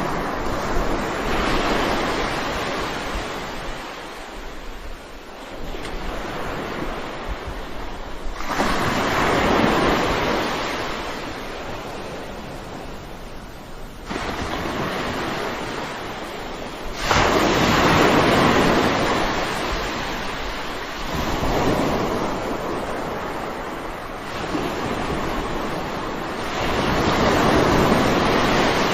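Sea waves breaking and washing up a shore one after another, a surge every few seconds that builds and then fades back into a steady wash.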